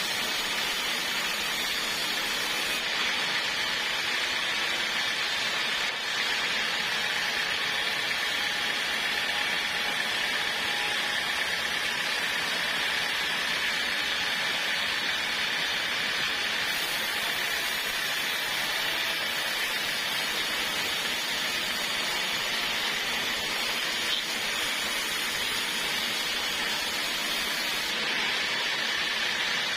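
Sawmill saw running with a steady, hissing noise.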